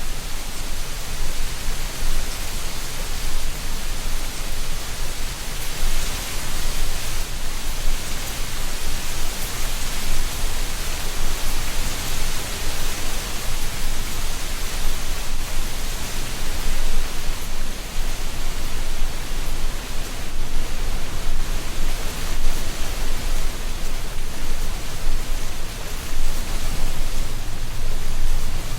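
Autumn wind blowing through treetops and rustling dry leaves: a steady rushing hiss that swells and eases gently.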